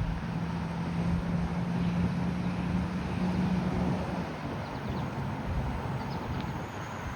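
Wind rushing over the microphone while cycling, with a steady low hum that fades about four seconds in.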